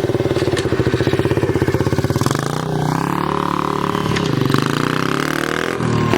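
Dirt bike engine running close by with a fast, steady pulsing beat. A little over two seconds in its pitch starts shifting, rising and falling as it is revved.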